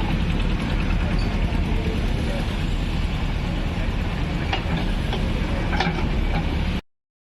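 JCB 3DX backhoe loader's diesel engine running steadily under work, with a few short knocks about five to six seconds in. The sound cuts off abruptly near the end.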